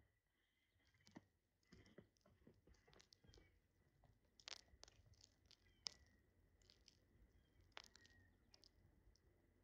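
Faint clicks and short, high chirps from small birds pecking at food, over a faint steady high tone.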